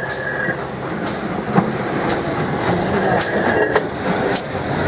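Train running along the track, its wheels clicking and knocking over rail joints a few times above a steady rumble.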